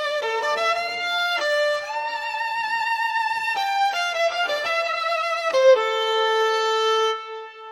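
Violin playing a slow melody with vibrato, moving from note to note, then holding one long note from about six seconds in that fades away near the end.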